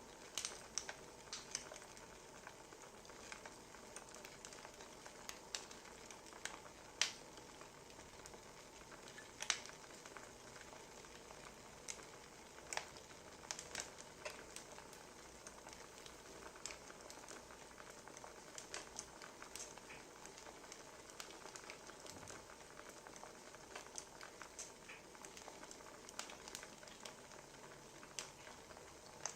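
Wood fire crackling: a faint steady hiss with irregular sharp pops and snaps, a few of them louder.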